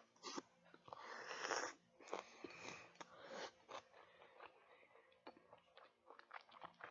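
Close-up mouth sounds of eating: a longer noisy intake about a second in, then a run of wet chewing smacks and clicks.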